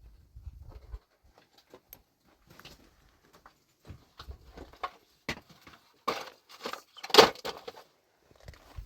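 Irregular clattering and knocking of hard objects being handled. A cluster of louder knocks comes about six to seven and a half seconds in, the loudest a sharp knock near seven seconds.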